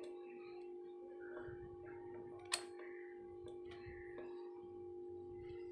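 Faint steady electrical hum from a home inverter running on battery backup, with one sharp click about two and a half seconds in.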